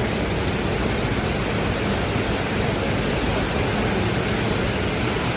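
Waterfall crashing into its pool: a steady, even rush of falling water.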